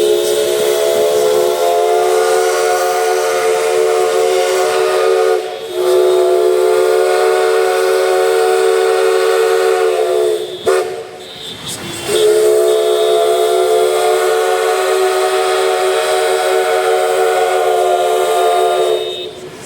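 Steam locomotive whistle sounding a chord in three long blasts, with a short break about five seconds in and a longer one about ten seconds in.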